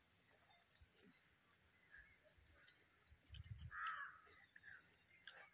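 A bird calls once, loudly, about four seconds in, after a fainter call near two seconds, over a steady high-pitched drone.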